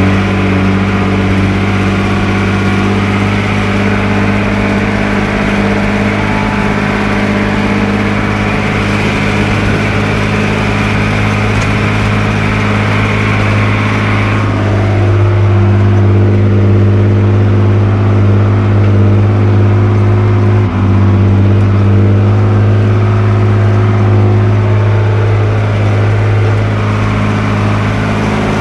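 Fendt 312 LSA tractor's diesel engine running steadily. About halfway through, a higher hiss drops away and the engine note shifts slightly.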